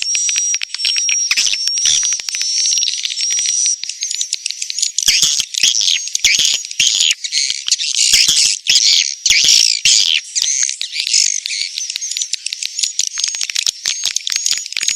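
Swiftlet calls used as a lure sound for swiftlet houses: rapid, high-pitched chattering twitters and clicks with repeated thin chirps, turning into a denser, busier chorus in the middle.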